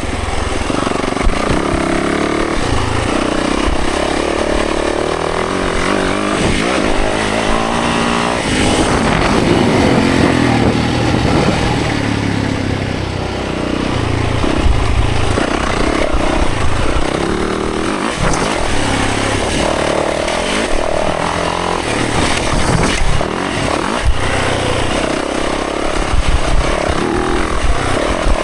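Dirt bike engine revving up and falling off again and again, rising through the gears and backing off, as the bike is ridden along a trail.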